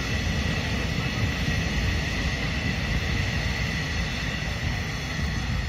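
Passenger train coaches rolling past at speed: a steady rumble of wheels on rails, with a thin steady high tone over it.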